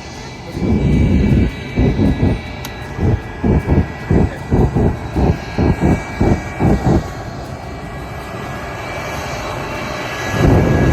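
Jet truck's jet engine running with a steady high whine over a loud rush. For several seconds it gives deep, rhythmic pulses, about two a second, then settles to a steadier rush before surging again near the end.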